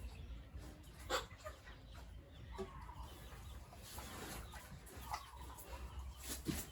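Chickens clucking a few times in short calls, with two sharp knocks, about a second in and near the end.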